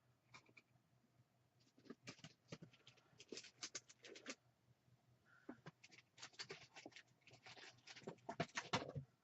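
Craft supplies being rummaged through on a table: quick runs of light clicks, taps and rustles of small plastic and paper items being moved and sorted, in two flurries.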